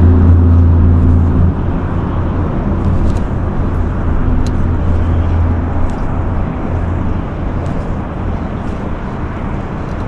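Low, steady engine-like hum and rumble that eases off gradually, with a few faint high ticks over it.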